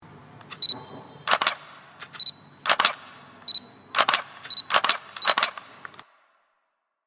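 Camera shutter sound effect: a short high focus beep followed by a sharp shutter click, repeated about five times at roughly one-second intervals.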